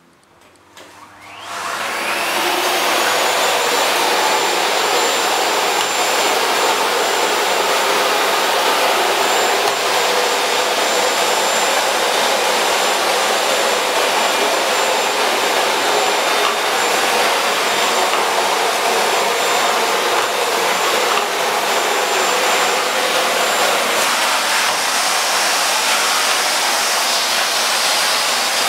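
Miele Ecoline Classic C1 canister vacuum cleaner switched on about a second and a half in, its motor spinning up with a rising whine, then running steadily while vacuuming hair, sand and larger debris off a parquet floor. Its tone shifts slightly near the end.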